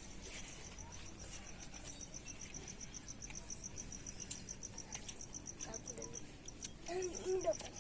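A cricket chirping steadily in a fast, even pulse, about six high chirps a second. Near the end a brief pitched call rises above it.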